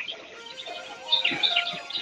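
Small birds chirping in quick falling notes, bunched about halfway through, over faint steady background music.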